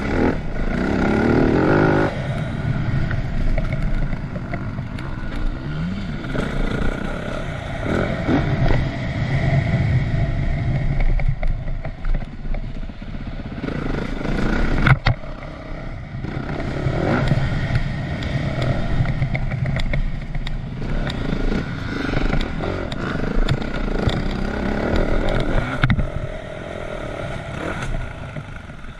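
Engine of a 2010 Yamaha YZ450F four-stroke single-cylinder motocross bike, revving up and easing off over and over as it is ridden, with a sharp knock about halfway through.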